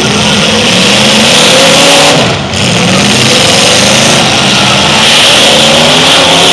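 Several demolition derby cars' engines revving at once, their pitches rising and falling over one another.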